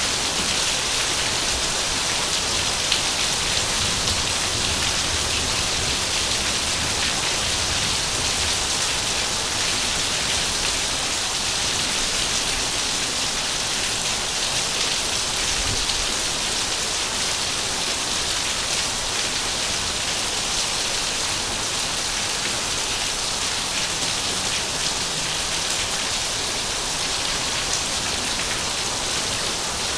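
Heavy rain falling steadily, an even hiss of rain on surfaces with scattered individual drops.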